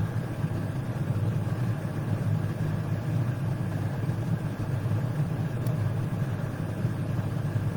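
A steady low mechanical hum, like an engine idling, with no pitch change or breaks.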